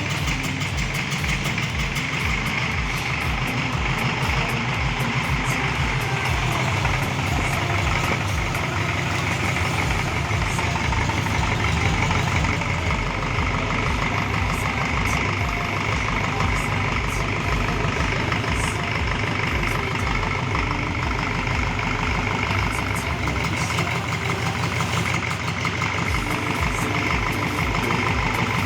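Rebuilt diesel forklift engine running steadily at idle after its overhaul, during tune-up and testing.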